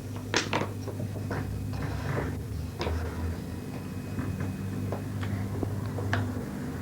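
Several short, sharp knocks and clicks over a steady low hum.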